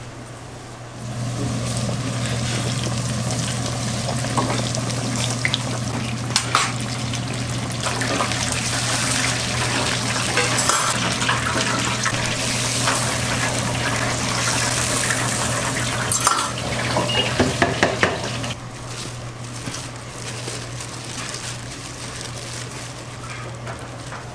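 Kitchen cooking noise: food sizzling in a pan, with a steady low hum and scattered clicks and clatter of utensils and pans. It starts about a second in, clatters several times just before the end of the loud part, and drops away after about eighteen seconds.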